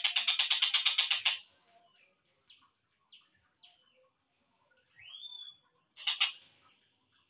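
Tengkek buto kingfisher calls in a slowed-down recording: a fast rattling trill of about ten notes a second for a second and a half, then scattered short notes. A rising whistle that levels off comes about five seconds in, and a brief burst of rattle follows.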